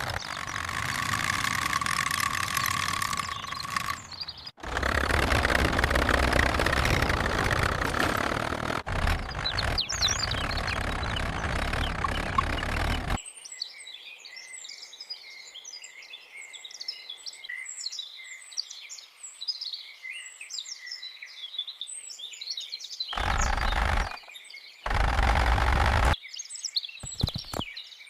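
A heavy engine running steadily for about the first half, cutting out briefly twice. Then many birds chirping, broken by two short bursts of engine noise near the end.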